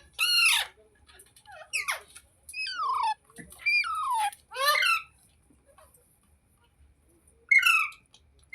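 Rose-ringed (ringneck) parakeet giving short, harsh calls that mostly fall in pitch: about six in quick succession over the first five seconds, then a pause and one more call near the end.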